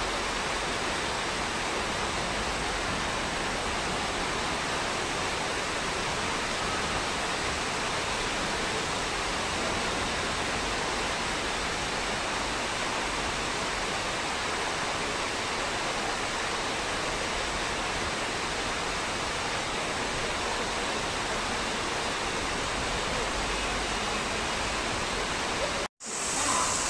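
Heavy rain pouring down on an open railway platform and tracks: a steady, even rushing hiss. It cuts off abruptly about a second before the end.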